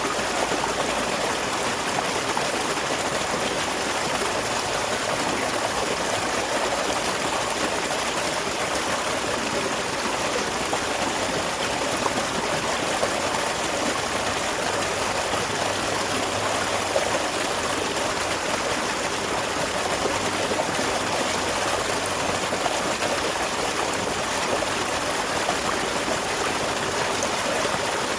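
Small waterfall flowing: water splashing in a steady, even wash that never lets up.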